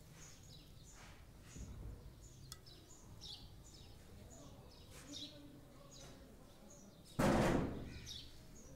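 Small birds chirping: short high calls repeated throughout, fairly faint over a low steady background hum. About seven seconds in comes a sudden loud rush of noise that fades within about a second.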